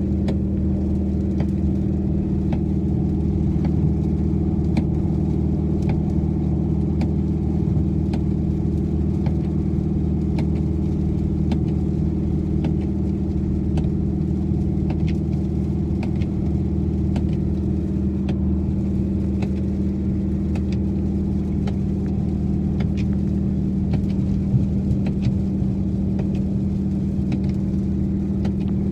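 Dodge Challenger R/T's 5.7-litre Hemi V8 running at a steady cruise, heard from inside the cabin, with a constant drone and no revving. Faint light ticks come about once a second over it.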